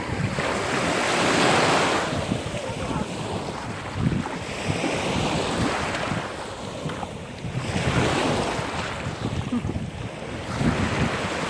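Caspian Sea waves washing in, swelling and fading in surges about every three seconds, with wind buffeting the microphone.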